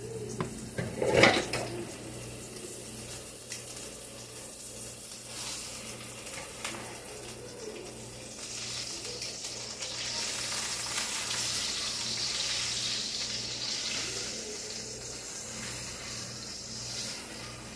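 Chicken frying in oil in a pan, with a steady low hum behind it. A loud clatter of kitchenware about a second in, a few light knocks, and a stretch of louder hissing through the second half.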